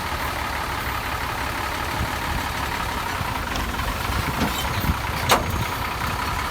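Heavy diesel earthmoving machinery running steadily, with a thin steady whine over the engine rumble. A few light clicks come near the end, and a single sharp knock just after five seconds in.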